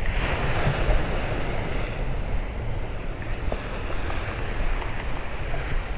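Sea surf washing against the shore, with wind buffeting the microphone.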